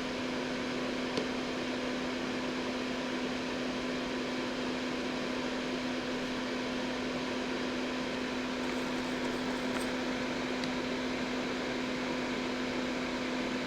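Steady whirring hum of a fan-like small motor, with a constant low tone under an even hiss; a couple of faint ticks.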